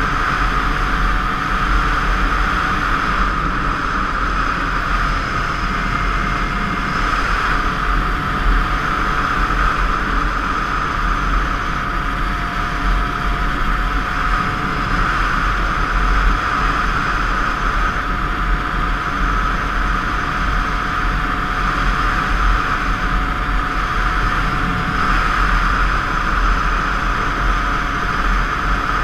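A 50 cc two-stroke motorcycle engine running steadily at cruising speed, heard from a helmet camera with wind rushing over the microphone.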